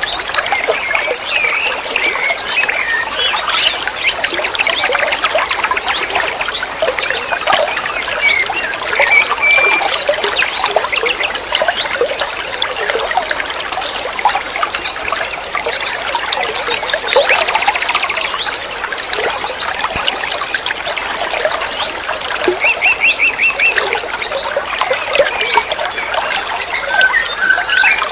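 A songbird singing a fast, continuous chattering song of quick chirps, trills and short whistles.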